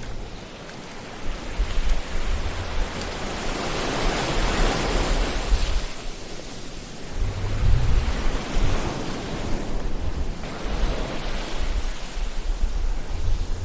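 Ocean waves breaking and washing in on a shore. The rush of surf swells and fades several times, with a low rumble under some of the swells.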